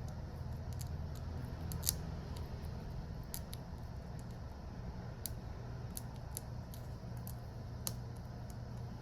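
Scattered small, sharp clicks and taps of hand tools working on a smartphone, irregular and a few per second at most, with two louder clicks about two seconds in and near the end, over a steady low hum.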